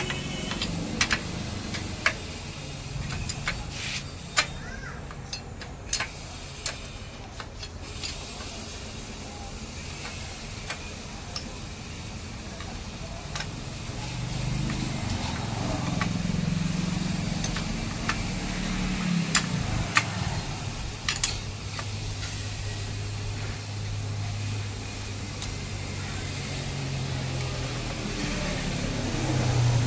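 Scattered metal clicks and clinks of hand tools on a Royal Enfield Bullet 350's engine as its cover is opened up. From about halfway, a low steady drone.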